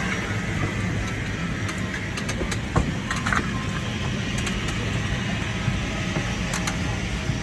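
Steady drone of an airliner's engines and air system heard inside the passenger cabin, with a low hum and a few light clicks.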